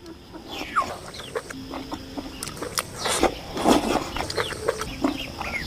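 Chickens clucking, mixed with the short clicks and slurps of someone eating.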